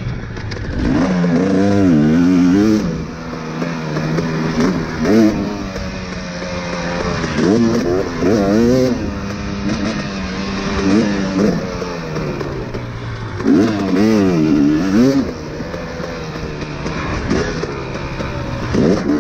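Dirt bike engine being ridden, revving up and falling back again and again in repeated bursts of throttle.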